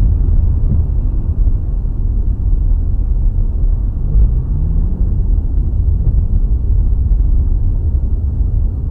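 Heavy, steady low rumble of a moving vehicle's engine and road noise picked up by a dashcam, with a brief rising engine tone about halfway through.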